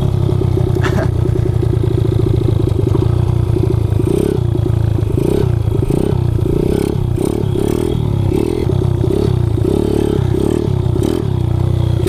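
Kawasaki KLX110 pit bike's single-cylinder four-stroke engine, bored out to 165 cc and fitted with an FMF exhaust, running under way. From about four seconds in, the engine note surges and drops rhythmically, about twice a second.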